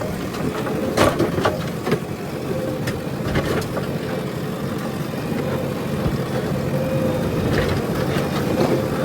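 JCB backhoe loader's diesel engine running steadily with a constant whine, with several sharp knocks scattered through as the machine works.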